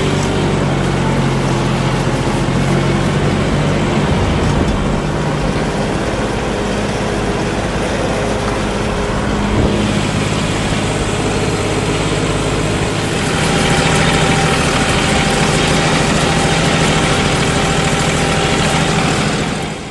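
John Deere 5310 tractor's common-rail diesel engine running steadily while pulling a 13-tine cultivator in C2 gear. It gets louder about two-thirds of the way through.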